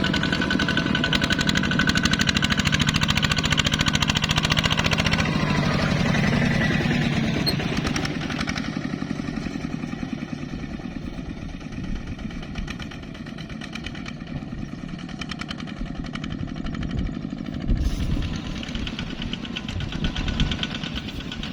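The single-cylinder diesel engine of a ZT 155 tractor runs with a rapid, steady knocking beat. It is loud at first, fades after about eight seconds, and grows louder again near the end, with one sharp knock shortly before.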